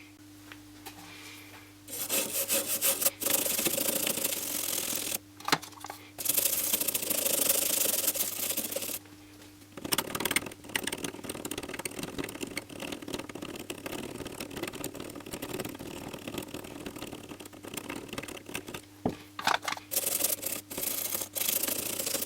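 Rust being scrubbed off a TV panel's strip circuit board: bursts of dry rubbing and scratching, then a longer stretch of quicker, uneven scratching. The corrosion is suspected of shorting the board's VDD line.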